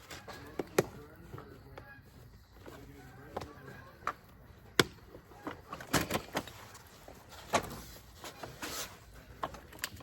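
Scattered sharp clicks and knocks of car seat plastic shells and buckles being handled and fitted.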